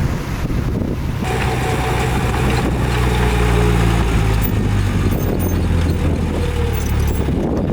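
Heavy diesel engine of earthmoving machinery (bulldozer or dump truck) running steadily with small changes in pitch, with a few faint high ticks in the second half.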